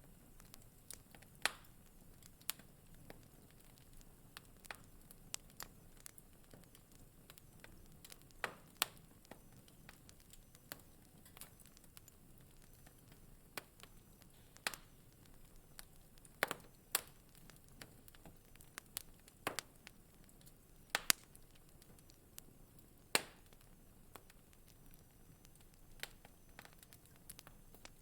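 Wood fire crackling in a fireplace: irregular sharp pops and snaps, about a dozen louder ones spread through, over a faint low hiss.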